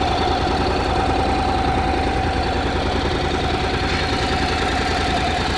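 2016 Honda CTX700N's parallel-twin engine idling steadily, with an even low beat and a steady high tone over it.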